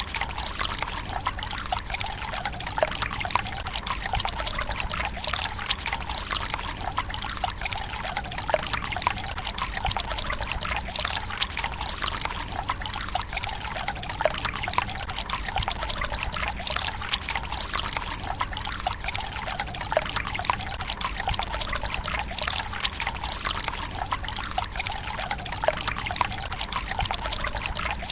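Water running from a bamboo spout into a Japanese tsukubai stone basin: a steady pouring trickle, flecked with many small splashes and drips.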